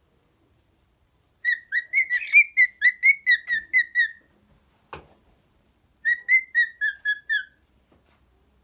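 Cockatiel whistling its song in two runs of quick, clear notes, about five notes a second: a longer phrase of roughly a dozen notes, then after a pause a shorter one. A soft click falls in the pause.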